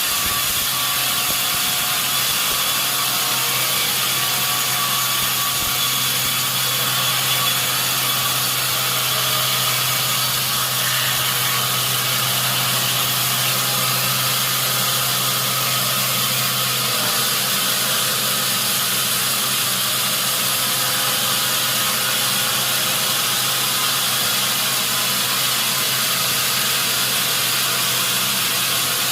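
A sawmill saw cutting through a log, a steady, loud, hissing run of noise. A low hum underneath drops out about 17 seconds in.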